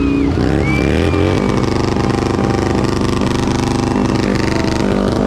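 Motorcycle engines running at low speed. One rises in pitch over about the first second and a half, then settles into a steady running note.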